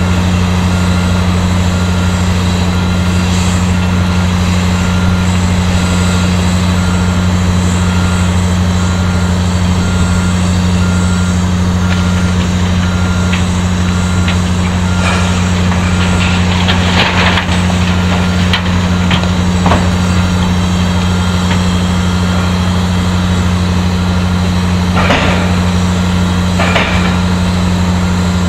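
Heavy mining machinery running with a steady, loud, deep drone that does not change, broken by a few brief hissing knocks midway and near the end.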